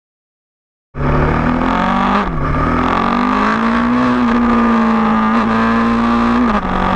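KTM 1290 Super Duke R's V-twin engine running hard at high revs, starting after a second of silence. Its pitch dips briefly about two seconds in, climbs back and holds steady, then drops near the end.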